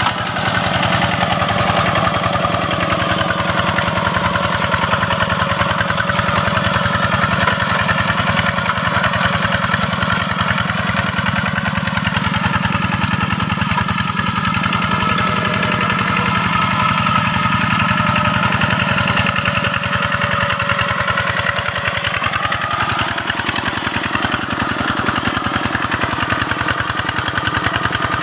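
Two-wheel hand tractor's single-cylinder diesel engine running steadily under load while plowing a rice field, its note wavering slightly about two-thirds of the way through.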